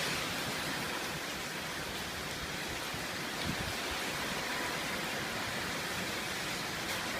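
Steady rushing hiss of heavy hurricane rain and wind: an even, unbroken noise.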